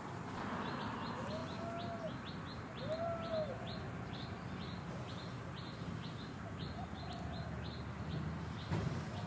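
Forest birds calling: a run of short, high chirps about two or three a second, with two arched, whistled calls about a second in and again about three seconds in, and a fainter one near seven seconds, over a low steady rumble.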